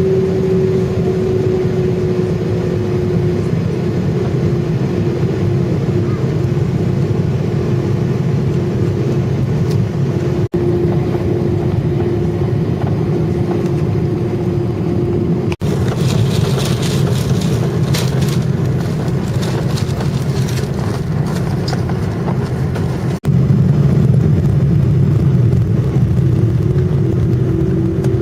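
Jet airliner engines running, heard inside the passenger cabin: a steady low rumble with a steady whine. The sound drops out for an instant three times and is louder for the last few seconds, with light ticking and rattling in the middle.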